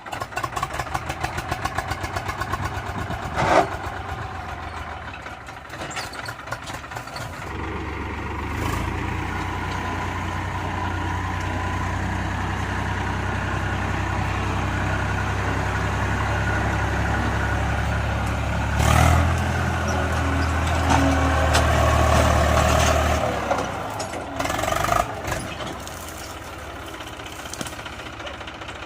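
Eicher 480 tractor's diesel engine running. It begins with an even firing beat, then pulls harder and louder for about fifteen seconds, then drops back, as the tractor works to get through deep rain mud.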